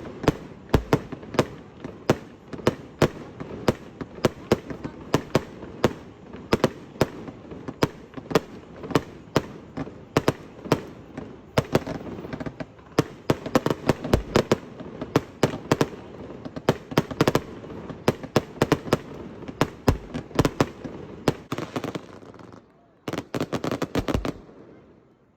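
Fireworks going off in a rapid string of sharp bangs and crackles, several a second, with a dense burst of crackling near the end before it goes quiet.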